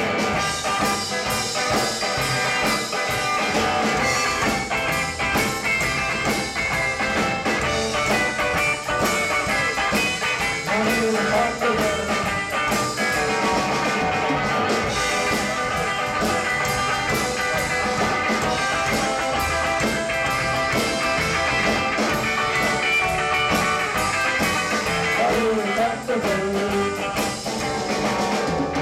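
Live rockabilly band playing an instrumental break between verses, with guitar over the rhythm section.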